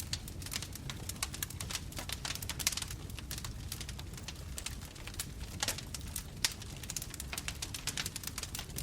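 Wood fire crackling: irregular sharp pops and snaps, several a second, over a soft low rumble of the flames.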